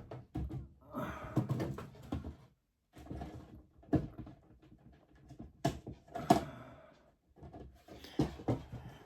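Enclosure lid being handled and fitted onto a tarantula enclosure: a series of sharp knocks and clicks with scraping and rustling in between.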